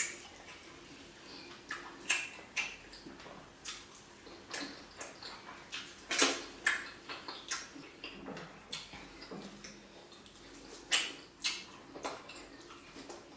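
Close-miked eating of tilapia pepper soup and pounded yam: wet chewing, slurping and lip smacks, heard as irregular sharp clicks. The loudest smack comes about six seconds in, with another cluster around eleven seconds.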